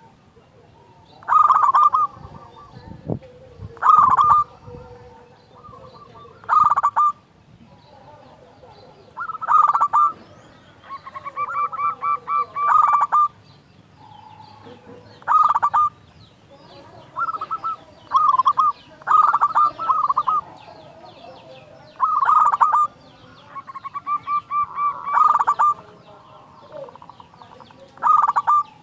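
Zebra dove cooing: short, loud staccato coo phrases about every two to three seconds, two of them drawn out into fast stuttering runs of notes.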